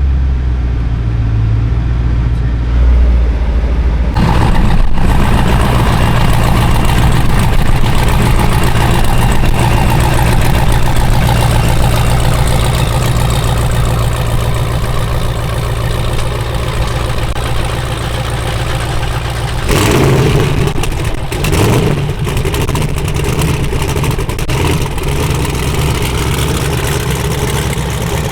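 Car engine running at a steady low idle, then about four seconds in revving up and running much louder and rougher, with a brief surge near the end.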